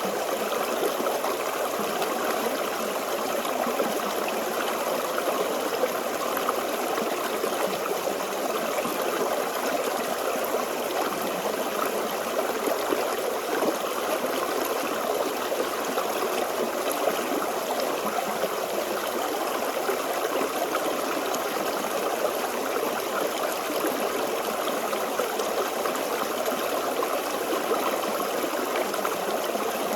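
Forest stream flowing steadily over rocks: continuous babbling and trickling water without a break.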